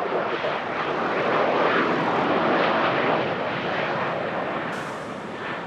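Aircraft engines passing close by, a dense rushing noise that swells to its loudest about two to three seconds in and then eases off.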